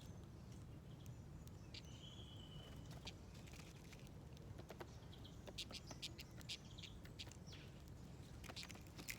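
Small birds at a seed dish: one short high chirp about two seconds in, then clusters of quick sharp clicks from beaks pecking at seeds, over a faint low rumble.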